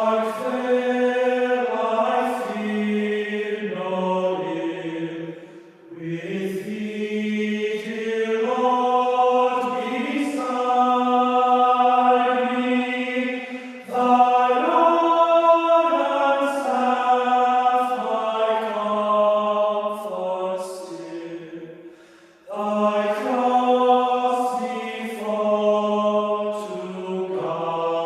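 Slow, chant-like singing in long held notes with no clear words, in phrases broken by short pauses about 6, 14 and 22 seconds in.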